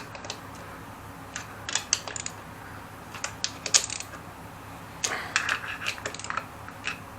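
Scattered metallic clicks and clinks, in small irregular clusters, of a socket wrench turning and tightening the clutch cover screws on a pit bike engine.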